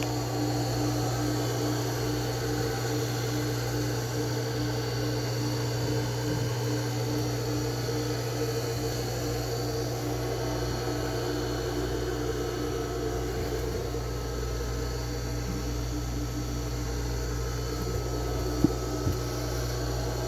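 Yacht engine-room machinery running steadily, a constant low hum with a steady tone above it, and a faint click or two near the end.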